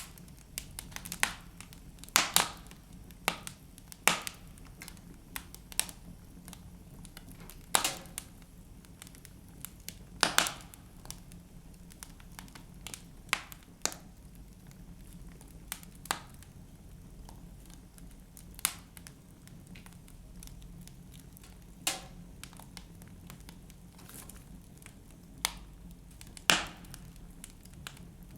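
Wood fire burning in a fireplace, crackling, with sharp pops every second or few seconds over a low steady hiss.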